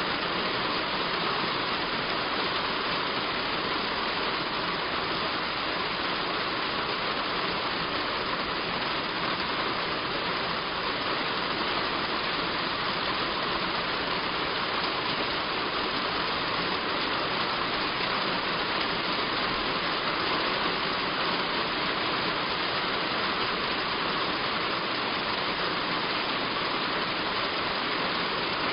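Heavy rain falling steadily on a roof: an even, unbroken hiss that stays the same throughout.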